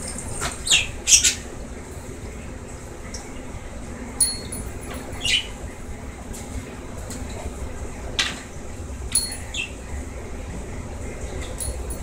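Pet bird in its cage giving a string of short, high chirps and squawks that sweep downward, a second or a few seconds apart, over a steady low hum.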